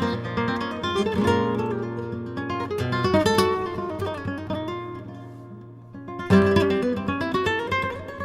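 Background music: acoustic guitar in a flamenco style, strummed chords and picked runs, with a loud strummed chord about six seconds in.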